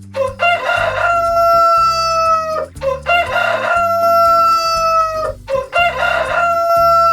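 Rooster crowing three times in a row, each crow about two and a half seconds long and ending in a long held note.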